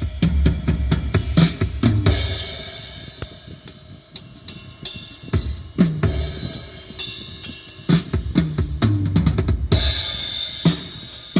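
Drum-heavy music with deep bass, kick, snare and hi-hat, with cymbal crashes about two seconds in and again near the end, played through a Honda CR-V's upgraded Blaupunkt car audio system with DSP for a sound check.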